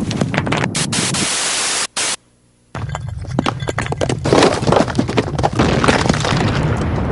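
Earthquake shaking: a loud, dense rumble with many sharp cracks and knocks of things breaking. It cuts out abruptly about two seconds in for under a second, then returns as loud as before.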